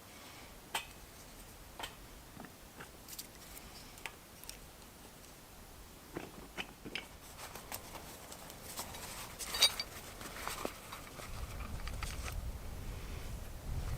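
Scattered small snaps and clicks of dry twigs and kindling being handled to build a campfire. They get busier toward the middle, with one sharper crack, and a low rumble comes in near the end.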